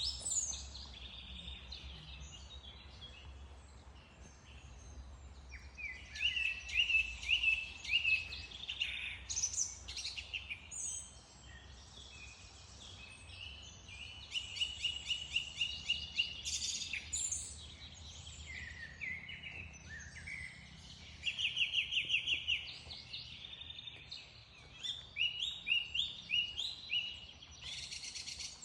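Wild songbirds singing, with rapid high trills and chirped phrases repeated and overlapping at different pitches. The busiest stretches come a few seconds in, around the middle, and again near the end, over a faint low rumble.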